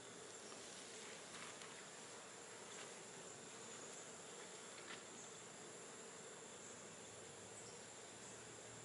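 Faint, steady buzzing of a honeybee colony around an open hive, with a few faint ticks.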